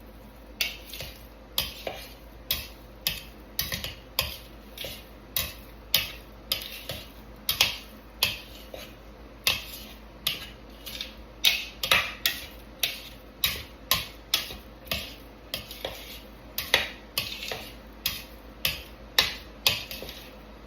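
Kitchen tongs clacking against a bowl over and over while tossing shrimp in a seasoning blend, about two uneven clacks a second.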